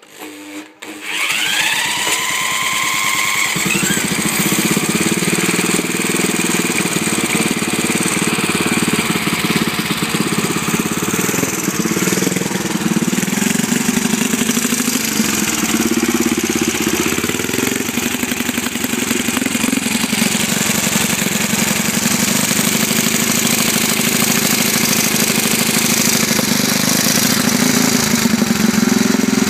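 A 1925 BSA B25 motorcycle engine starting about a second in, with a short rise in pitch as it catches, then running steadily.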